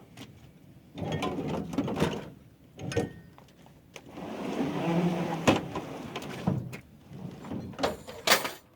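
A heavy object being dragged and shifted into place, scraping for a couple of seconds midway, with several knocks and clunks, the sharpest near the end.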